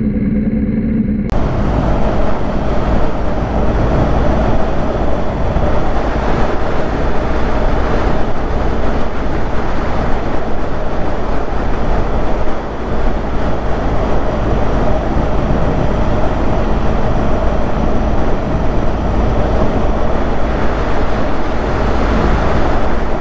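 Motorcycle on the move: a steady, loud rush of wind and road noise over the engine. About a second in, a muffled hum with a steady low tone gives way abruptly to the full rushing noise.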